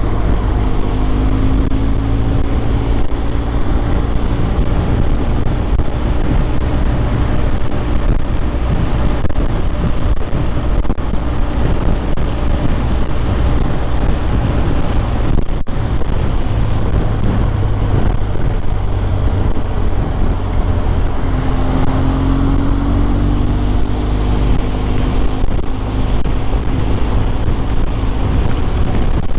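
BMW R1200 GS flat-twin boxer engine running under way, with wind and road noise over the bike; the engine note rises as it accelerates about a second in and again near twenty seconds in.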